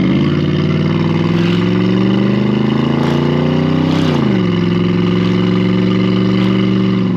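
A V8 with race pipes revving up under throttle, climbing for about four seconds, then dropping sharply and holding a steady, lower speed. The traction control was left on.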